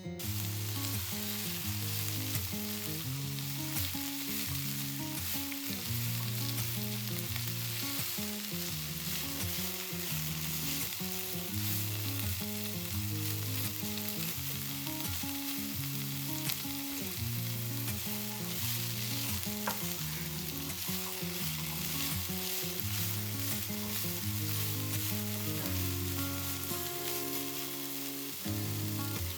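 Food sizzling in a frying pan, a steady hiss, with instrumental background music underneath.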